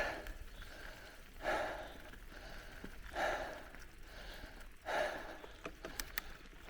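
A cyclist's heavy, rhythmic breathing, a strong exhale about every second and a half to two seconds, with a few faint sharp clicks near the end.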